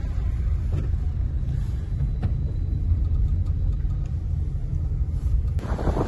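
Strong wind buffeting the microphone, heard as a deep, gusty rumble.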